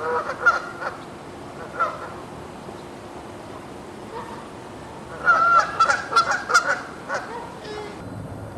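Canada geese honking: a few calls near the start and again around two seconds in, then a dense run of overlapping honks in the middle.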